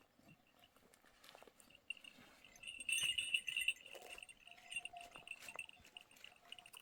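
Bells on grazing sheep ringing and clinking as the flock moves, louder from about three seconds in.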